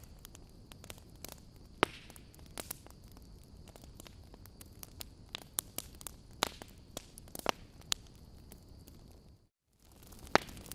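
Wood campfire crackling: irregular sharp pops and snaps over a low, steady hiss. The sound cuts out completely for a split second about nine and a half seconds in, and the loudest pop comes just after.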